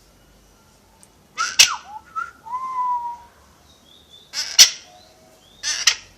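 Pet parrot squawking three times: harsh calls about a second in, past four seconds, and near the end. Between the first two comes a short whistled note.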